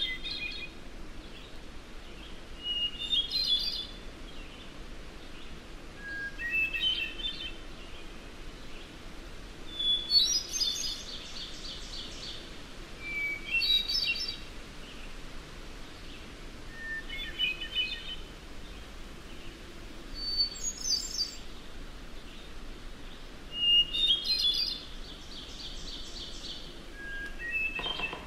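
A wild bird singing short phrases about every three and a half seconds, each phrase starting on a different pitch, over a faint steady background hiss.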